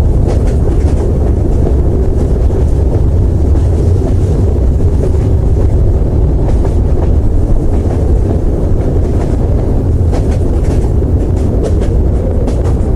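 A train running along the track: a loud, steady rumble with faint scattered clicks.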